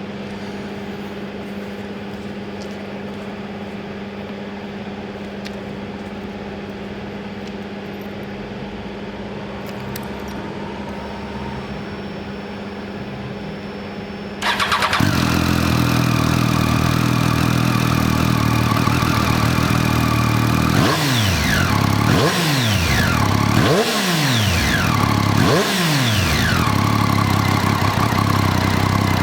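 Triumph Street Triple 675's three-cylinder engine starting about halfway in after a steady low hum, then idling, with four quick throttle blips that rise and fall in pitch before it settles back to idle.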